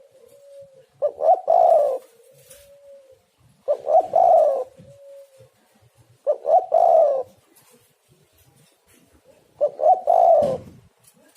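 Spotted dove cooing: a short phrase of low coo notes repeated four times, about every three seconds, some phrases followed by a softer trailing coo.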